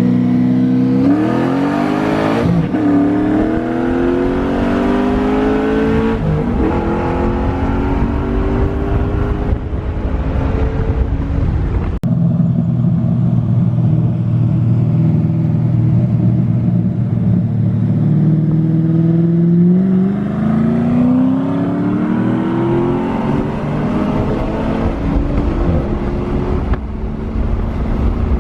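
Turbocharged straight-six car engine accelerating hard through the gears: the revs climb, drop at each gear change and climb again, with a steadier stretch in the middle before another long pull.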